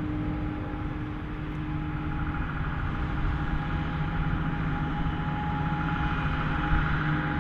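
Heavy farm machinery engines running during maize chopping: a steady droning with a few held tones, growing a little louder from about two seconds in.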